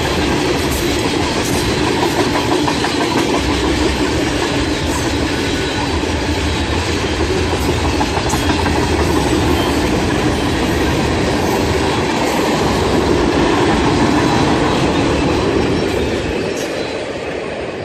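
Train cars rolling past, wheels clattering over the rails in a steady loud rumble that eases off a little near the end.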